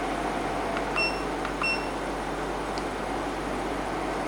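EcoFlow Wave 2 portable air conditioner running at full fan speed, a steady rush of blown air. Two short high beeps from its control panel come about a second in and just under two seconds in, as the buttons are pressed.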